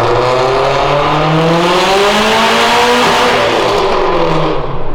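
Car engine revving hard on a chassis dyno, its pitch climbing steadily for about three seconds through a pull and then falling as the throttle comes off.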